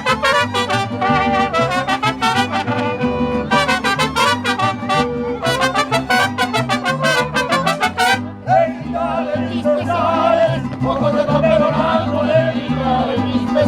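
Mariachi music: trumpets play the melody over a steady bass line, then a few seconds past the middle the brass stops and singing takes over.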